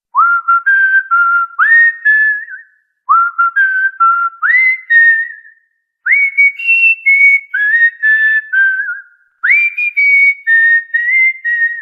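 Cockatiel whistling a short melody four times over. Each phrase opens with a quick rising note and runs into a few steady notes, with brief pauses between phrases.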